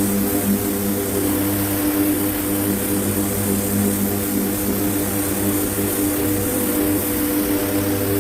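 A steady machine drone with a constant low hum and hiss that does not change.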